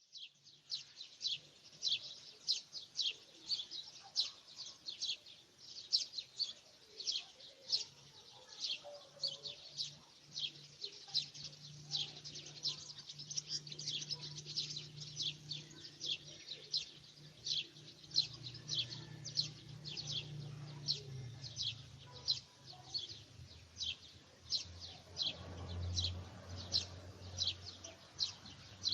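Birds chirping continuously in quick, short high chirps, about two to three a second, over a faint low steady hum.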